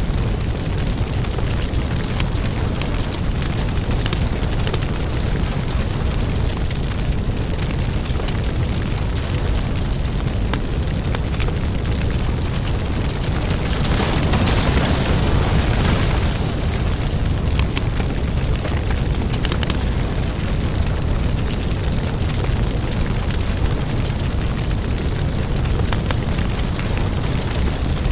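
Wood fire burning in a fireplace: a steady rumbling rush dense with sharp crackles and pops, swelling a little louder for a couple of seconds about halfway through.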